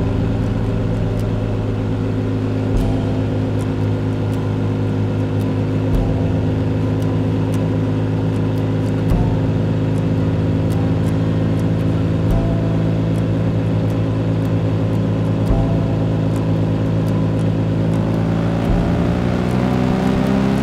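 Motorcycle engine running at a steady cruise during a ride, its pitch easing down slightly and then rising near the end as the bike accelerates. Low thumps come about every three seconds.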